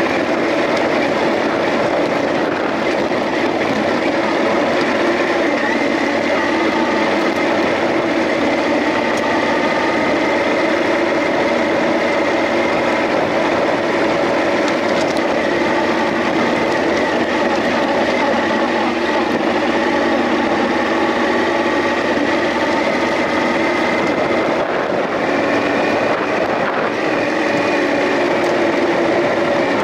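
Off-road motorcycle engine running steadily as the bike is ridden along the track, its pitch drifting a little with the throttle.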